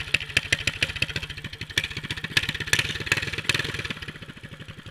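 Predator 212cc single-cylinder four-stroke mini bike engine running just after a restart in freezing cold, with a fast, uneven beat of exhaust pops that settles quieter near the end. It is not yet fully warmed up.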